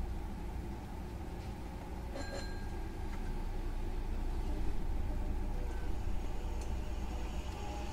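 Inside a Hankyu 9000 series electric train: a steady low rumble with no announcement, swelling slightly over the first half.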